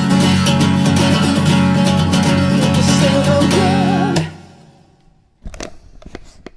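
Acoustic guitar strumming the final chords of the song, then stopping about four seconds in and ringing away. A few soft clicks and knocks follow near the end.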